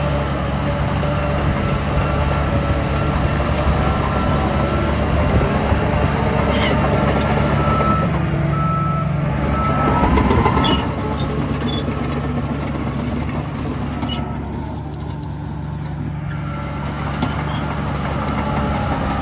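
Heavy diesel earthmoving machinery running steadily, with a truck's reversing beeper sounding repeatedly through the first half. About ten seconds in the engine note rises, then the overall level drops back.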